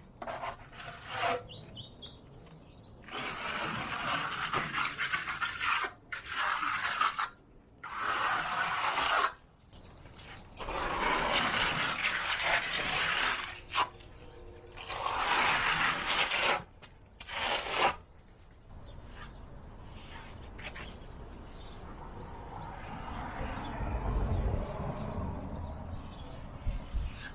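Hand tool scraping and rubbing across a stucco wall in repeated stretches of a few seconds, each broken off abruptly. Near the end the sound is quieter and duller.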